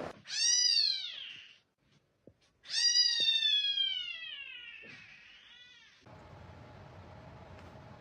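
A cat meowing: two long, drawn-out meows, the first rising and falling, the second longer with a slowly falling pitch, then a short faint call.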